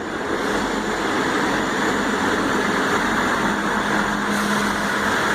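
Class 159 diesel multiple unit's underfloor diesel engines running steadily while standing at the platform, with a steady hum coming in about two-thirds of the way through.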